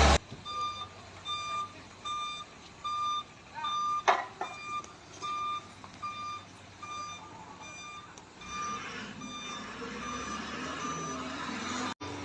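Truck's reversing beeper sounding steadily, about two short high beeps a second, as the loaded truck backs down the steep grade it could not climb. There is a single sharp knock about four seconds in, and a rising rumble of engine and road noise under the beeps near the end.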